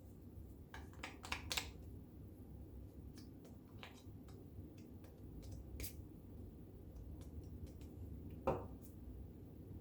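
Faint scattered clicks and taps of paper craft pieces being handled and pressed down on a tabletop, with a small cluster about a second in and one louder tap near the end.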